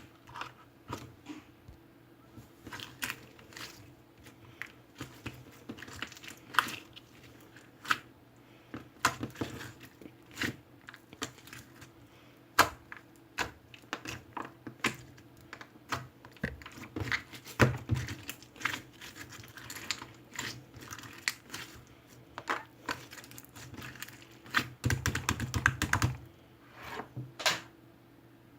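Irregular light clicks and taps of small hard objects, coming singly and in quick runs, over a faint steady hum.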